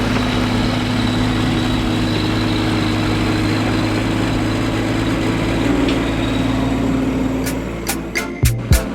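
Bobcat E10 mini excavator's diesel engine running steadily. Near the end the engine sound drops and a few sharp knocks are heard.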